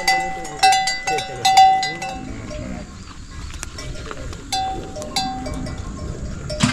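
Livestock neck bells clanking with many quick, ringing strikes as the herd moves, most busily in the first two seconds, thinning out midway and picking up again near the end.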